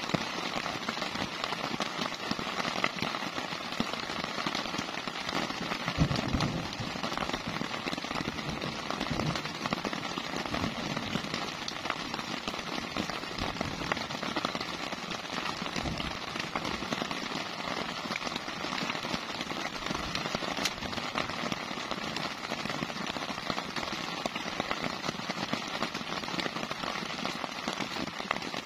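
Heavy rain: a dense, steady patter of drops hitting a nearby surface, with a brief low thump about six seconds in.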